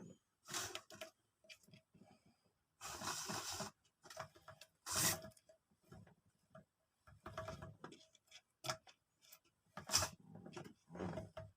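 Hands working on the inside of a bread maker during a drive-belt replacement: scattered small clicks and knocks of plastic and metal parts, with a few short scraping rustles, the longest about three seconds in.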